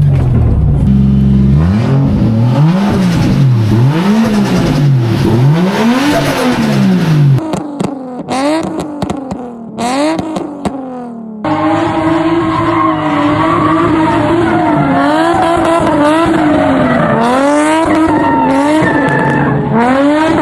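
Drift car engine revving up and down again and again while drifting, with tyres squealing, in several abruptly joined segments; the sound drops and changes about a third and halfway through.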